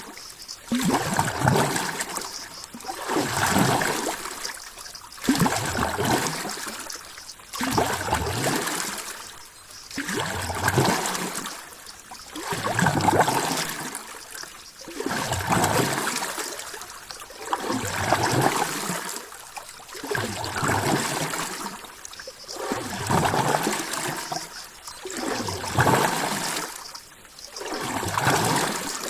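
Ocean water washing in regular surges, each swelling and fading about every two and a half seconds.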